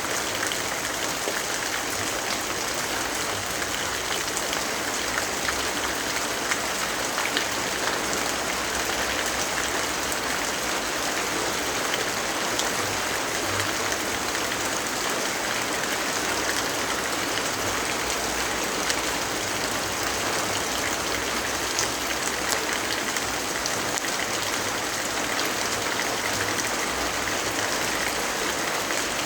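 Steady rainfall, an even dense hiss with many small scattered drop ticks.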